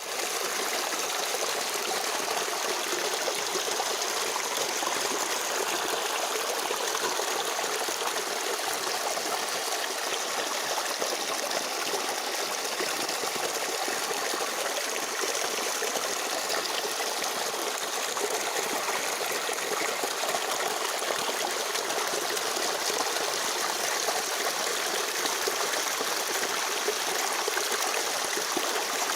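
A small stream running steadily over rocks, a continuous trickling and splashing of water with no deep rumble.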